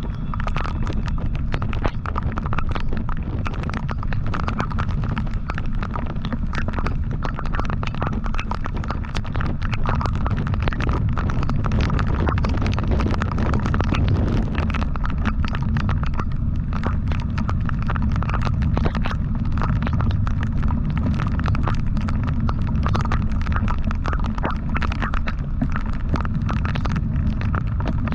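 Motorcycle riding at a steady speed: a continuous low rumble of the engine and road, with heavy wind buffeting on the microphone.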